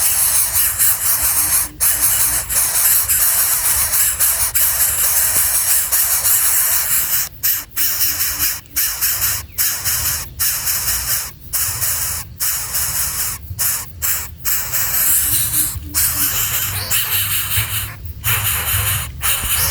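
Loud, steady hiss, broken by many brief gaps from about seven seconds in.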